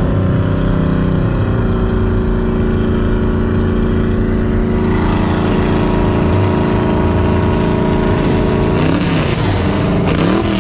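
Car engine running steadily at cruising speed, heard from inside the cabin, with road and wind hiss growing about halfway through. Near the end the engine note dips and climbs back twice in quick succession.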